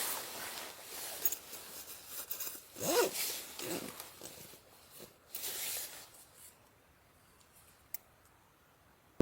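Irregular rustling and scraping handling sounds, with a brief squeak about three seconds in, fading to near quiet after about six seconds; a single sharp click near the end.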